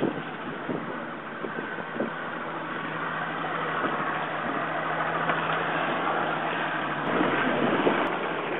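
Motorboat engine running steadily under a wash of wind and water noise, slowly getting louder.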